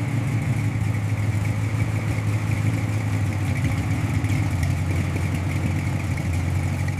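Engine idling steadily at a low, even pitch, cutting in suddenly at the start.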